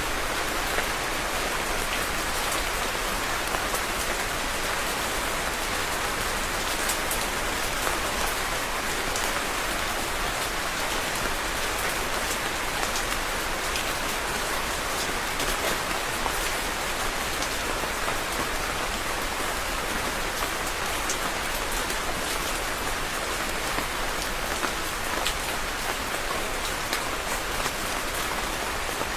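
Steady rain falling, an even hiss peppered with the small ticks of individual drops striking a surface.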